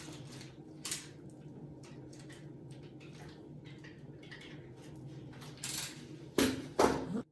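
Small clicks and rustles of hand work with tools and materials over a faint steady hum, with a few louder sharp clatters near the end.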